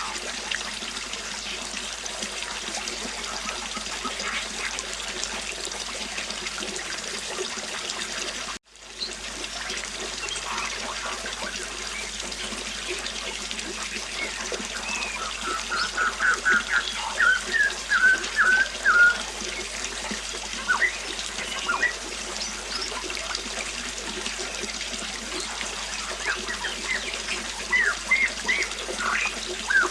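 Flowing river water running steadily, with a songbird breaking in from about halfway through with quick runs of high chirps, and again near the end. The water cuts out for an instant about a third of the way in.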